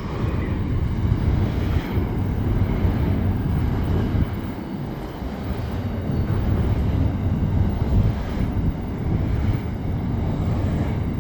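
Steady low rumble of a passing heavy vehicle.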